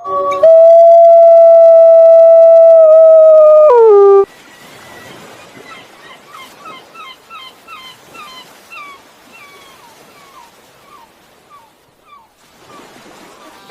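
A dog or wolf howling: one long, loud howl held at a steady pitch for about three and a half seconds, dropping at the end. After it come many faint, quick chirping calls.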